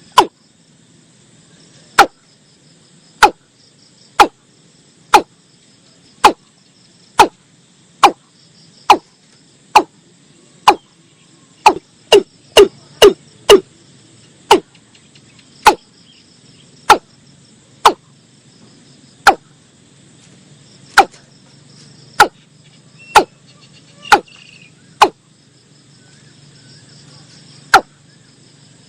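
Watercock calling: short, deep single 'kok' notes repeated every second or two, with a quick run of five in a row about twelve seconds in. Faint insects chirr steadily behind.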